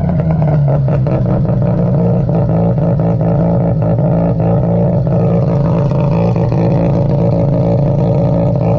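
Ported Mazda 12A two-rotor rotary engine idling loud with open long-tube headers and no muffler, a steady note with a choppy, uneven pulse typical of a ported rotary, settling after the revs have just dropped back.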